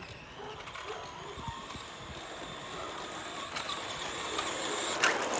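Electric motor and gears of a radio-controlled car whining as it drives, the pitch creeping upward, with a louder rushing noise about five seconds in.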